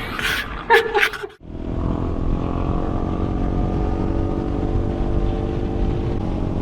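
Adventure motorcycle engine running at a steady speed, starting abruptly about a second and a half in, its pitch holding level.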